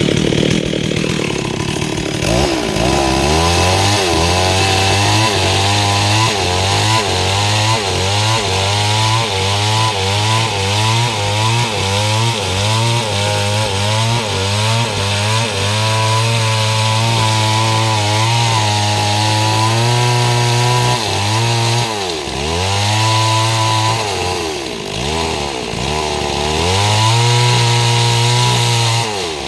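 STIHL MS 382 two-stroke chainsaw with a 30-inch bar sawing mahogany, its engine at high revs and wavering quickly up and down under the load of the cut. In the second half the revs drop briefly and pick up again a few times.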